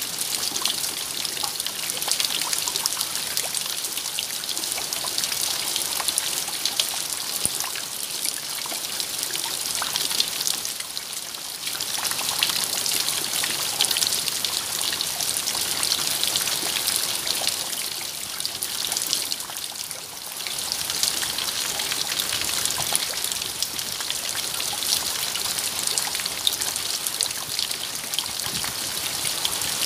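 Steady rain: a dense hiss of falling drops with many small ticks in it, easing briefly twice.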